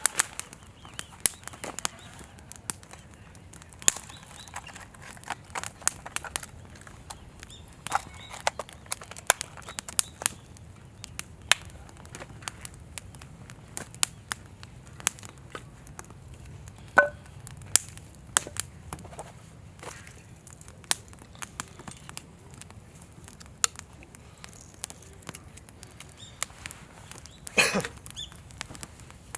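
Wood campfire crackling, with irregular sharp pops and snaps and one louder pop near the end.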